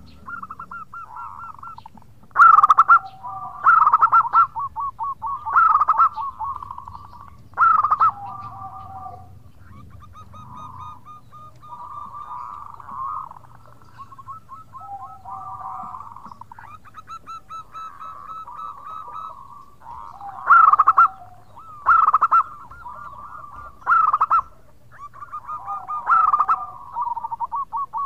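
Zebra dove (perkutut) cooing: rapid, stuttering coo phrases repeated over and over. The loudest calls come about every two seconds near the start and again near the end, with a softer run of calls in the middle.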